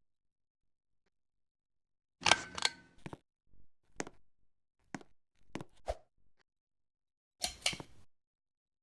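Scattered sharp clicks and knocks, with two louder rattling bursts of about a second each, a couple of seconds in and near the end.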